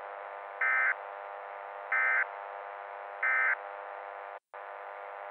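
Emergency Alert System end-of-message signal: three short warbling data bursts, about a second apart, marking the end of the alert. Underneath runs a steady radio-style hum that cuts out for a split second near the end.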